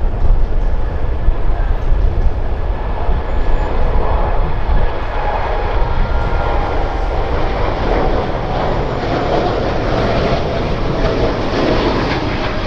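Jet airliner engines, a steady low rumble with a rushing noise that builds louder in the second half.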